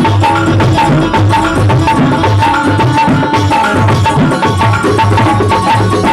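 Loud live music from a musical group's sound check: fast hand-drum percussion over a steady held note.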